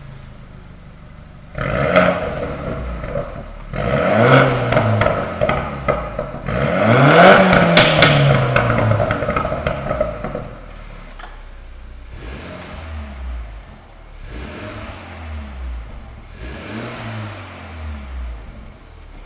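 BMW F34 320i Gran Turismo's turbocharged four-cylinder engine revved through an aftermarket JHG valved mid and rear exhaust. It idles, then gives a sharp blip a little under two seconds in and two longer revs that climb and fall, the biggest about halfway through. The second half holds several lighter, quieter blips.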